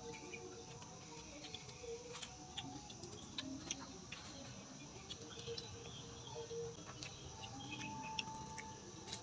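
Faint, scattered clicks and crackles of close-up eating: boiled shrimp and raw vegetables being handled and chewed.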